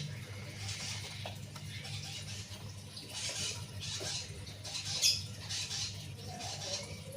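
Soft rustling and scratching from a pet conure shifting about, with small clicks and one sharper click about five seconds in, over a steady low hum.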